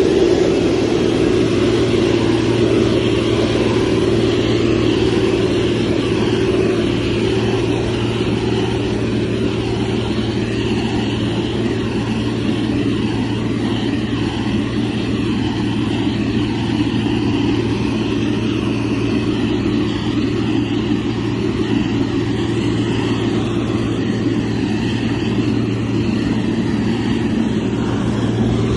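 Heavy diesel engine of road-construction machinery running steadily, with a constant low drone that holds its pitch throughout.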